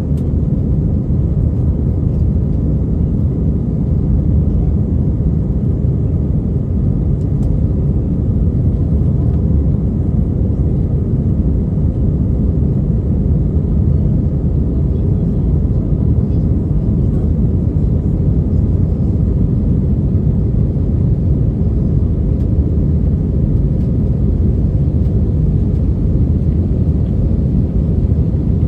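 Steady low rumble of an Airbus A319-132 airliner in its takeoff and climb, as heard inside the cabin: its IAE V2500 jet engines and the rush of air, level and unchanging in pitch.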